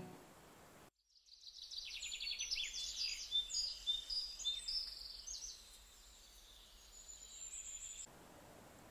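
Small birds chirping, with many quick, high chirps overlapping. The chirping starts about a second in and cuts off sharply near the end.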